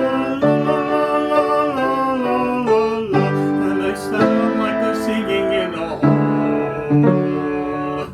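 A man singing a remembered melody on wordless 'la la' syllables, with an instrument accompanying, breaking off abruptly near the end.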